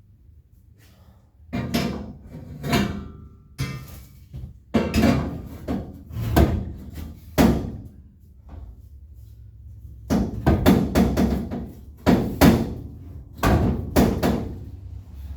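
Irregular knocks and clanks of roll bar parts being handled and set in place on a pickup bed, some with a brief metallic ring. They come in two bursts of activity after a quiet start.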